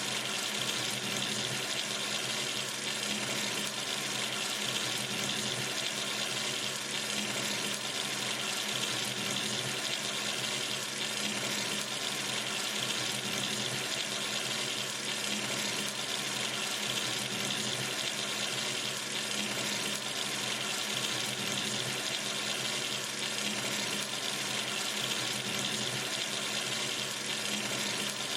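A sink tap running steadily, water streaming into the basin with an even, unbroken hiss.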